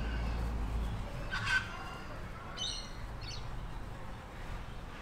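Short bird chirps, twice in the second half, after one brief high squeal about a second and a half in, over a low steady background.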